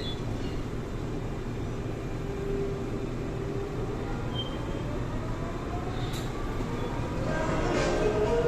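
Seoul Line 4 4000-series electric train with Daewoo-Alstom GTO VVVF traction running, with steady wheel and track rumble. A traction motor whine climbs in pitch as the train gathers speed, and several more tones come in near the end.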